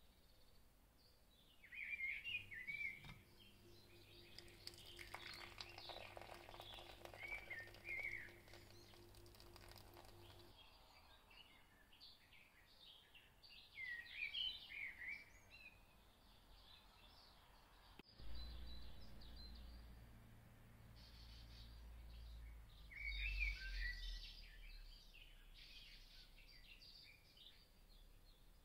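Faint chirping of small birds in short twittering phrases every few seconds, over a low steady hum.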